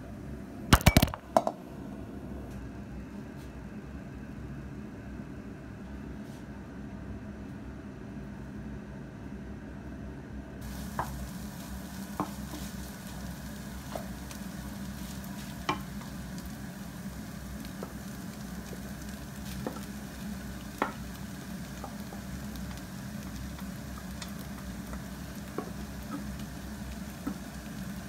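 Diced bacon, onion and green pepper sizzling in a non-stick frying pan while a wooden spatula stirs them, with scattered clicks of the spatula on the pan. A few sharp knocks about a second in; the sizzle sets in about ten seconds in.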